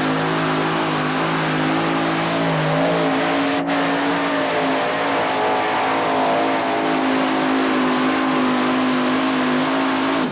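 Modified pulling tractor's engine running flat out under load during a pull, held at steady high revs with a slight shift in pitch about three seconds in.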